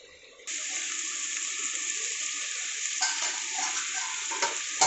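Chicken curry cooking in a pan: a steady sizzling hiss that starts abruptly about half a second in, joined from about three seconds in by bubbling and a few light knocks.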